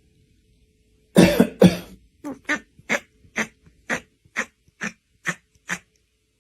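A series of coughs or hacking sounds: two loud ones about a second in, then about nine shorter ones at roughly two a second.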